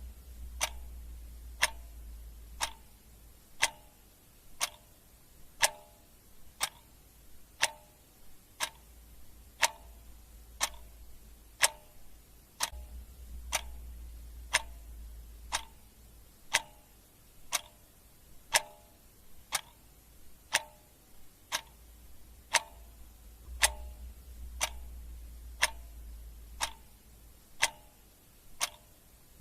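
Clock ticking steadily, about one sharp tick a second, with a faint low hum coming and going underneath.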